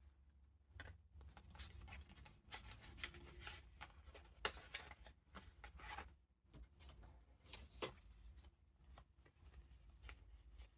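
Faint rustling and crinkling of paper as pages of a handmade junk journal full of vintage paper ephemera are turned and handled, with a few sharper taps, the clearest about four and a half and eight seconds in.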